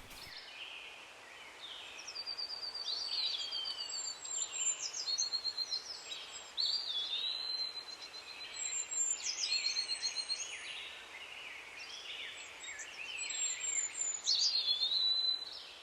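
Several wild birds singing in a woodland chorus, overlapping phrases of high trills and quick whistled slides, over a faint steady hiss of outdoor ambience.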